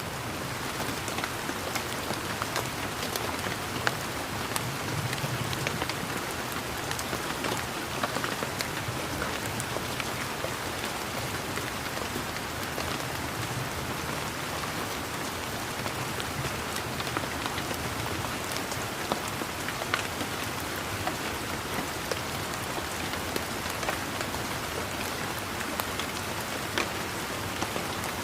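Steady rain falling on a garden, a continuous hiss with many distinct raindrop ticks and pats scattered through it.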